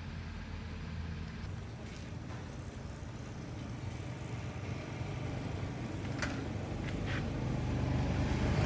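Car engine running steadily, growing louder toward the end, with a couple of light clicks near the middle.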